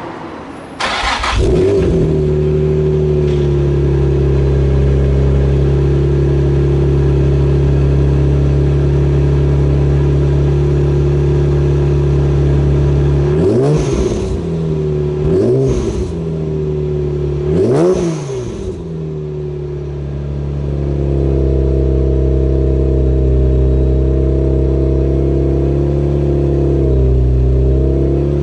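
Supercharged VQ35DE V6 of a 2004 Nissan 350Z through a Borla exhaust, catching about a second in and settling to a steady idle. It is blipped three times in quick succession, with a high supercharger whine rising and falling with each blip, then it returns to an idle whose note wavers slightly.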